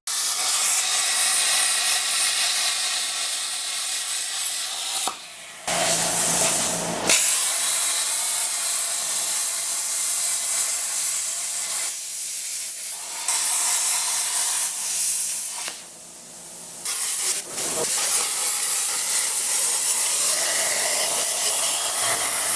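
Loud, steady hissing that starts suddenly, with brief breaks about five seconds in and again around sixteen seconds.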